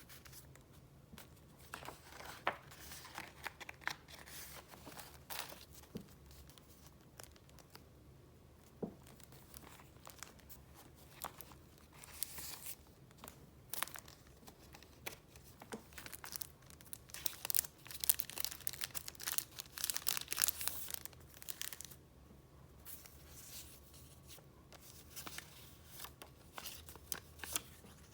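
Paper handled close up: sheets and pages of a paper-filled file rustling, crinkling and being flipped. The sound is a string of short crackles that is busiest about halfway through.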